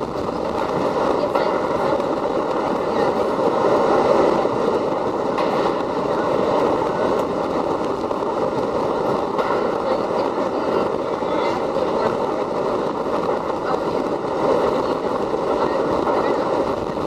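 New York City Subway R32 cars running at speed on the express track, a steady rumble of wheels on rail with a faint steady whine.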